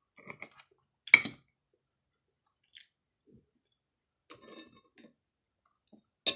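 Close-up chewing and mouth sounds of someone eating longganisa sausage and rice, soft and intermittent. A sharp click comes about a second in and another right at the end.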